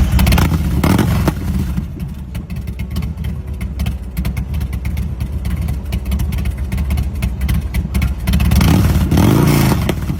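S&S 111 V-twin engine of a 2004 American IronHorse LSC chopper running at idle, revved up and back down once near the end.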